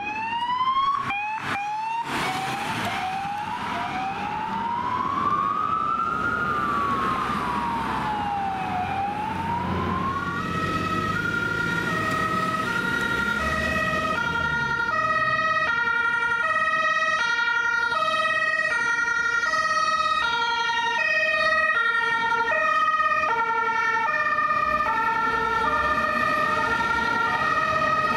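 Emergency vehicle sirens. First a few quick rising yelps, then a slow wail that rises and falls. From about ten seconds in, a two-tone hi-lo horn alternates, soon joined by a second two-tone horn at a different pitch and out of step with it, from more than one vehicle.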